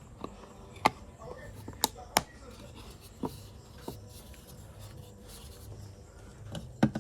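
About six sharp clicks and taps at irregular spacing, the loudest about a second in and twice around two seconds in: small hard parts being handled during a repair of an inverter LED light.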